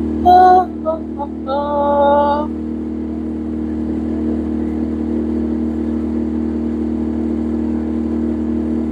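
Boat engine running with a steady drone. In the first two seconds, two short pitched sounds like a voice calling out rise above it.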